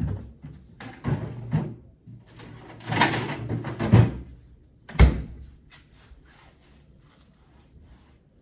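Knocks and thuds of things being handled and set down, with a longer rustling stretch and one sharp bang about five seconds in, like a door or cupboard shutting.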